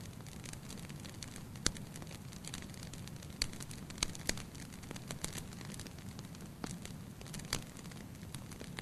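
Fire burning in a fireplace: a steady low rumble with sharp, separate crackling pops every second or so.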